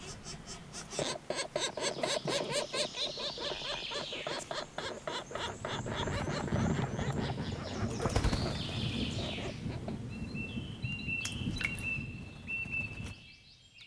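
Small birds at a nest: wings fluttering with rapid scratchy clicks and high chirps, then a thin, high whistled note repeated several times near the end.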